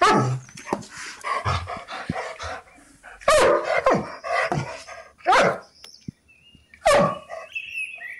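A dog barking: about five loud single barks, spaced a second or more apart, with quieter sounds between them.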